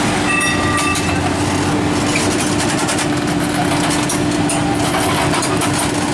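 Heavy truck diesel engine running steadily with a constant low hum and rattle, and a short high tone about a third of a second in.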